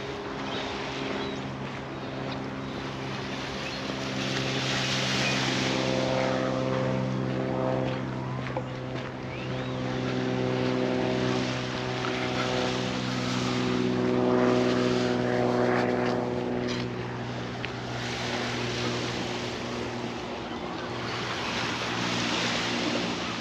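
An engine running steadily with a low, even drone, its pitch shifting slightly near the end. A rushing noise swells and fades over it several times.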